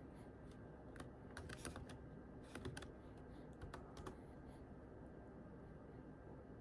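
Quiet typing on a computer keyboard: a few soft key clicks in short bursts during the first four seconds, then only the odd click.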